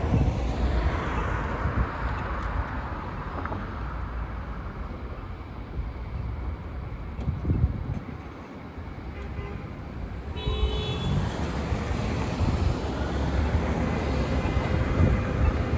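Road traffic passing, with a steady low engine rumble and tyre noise that dips in the middle and swells again. About ten seconds in there is a brief vehicle horn toot.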